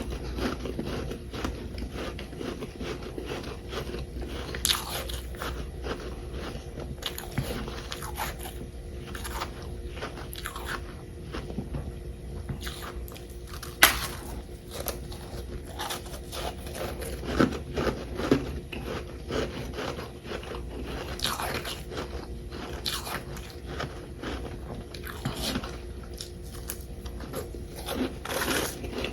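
Chunks of humidifier-made freezer frost being bitten and chewed close to the microphone: a dense, irregular run of crunches, the sharpest about 14 seconds in.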